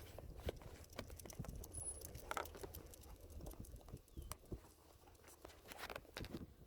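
Light, irregular patter of footsteps and rustling on the ground, over a low rumble of wind on the microphone.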